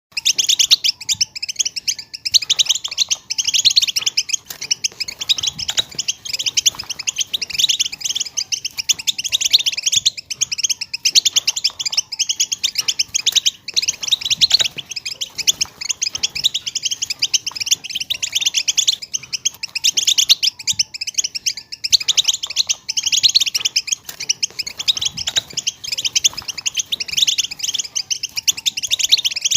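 A flock of European goldfinches twittering and singing together, a dense, unbroken chatter of quick high notes.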